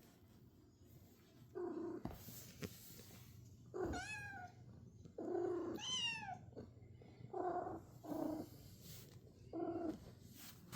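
Domestic cat meowing repeatedly, about six short calls a second or two apart, two of them falling in pitch at the end.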